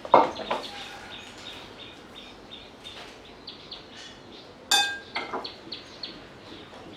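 Birds chirping: a steady run of short, high notes. Two louder sharp sounds stand out, one right at the start and one with a ringing tone about five seconds in.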